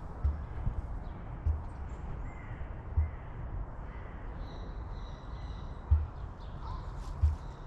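A steady low rumble with six or so dull thumps at uneven intervals, and faint, thin, high bird calls in the middle.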